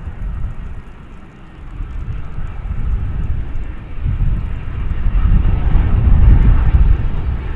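Jet aircraft passing at the airport: a rumble with a higher whine that grows louder from about a second and a half in, peaks near six seconds, then starts to ease.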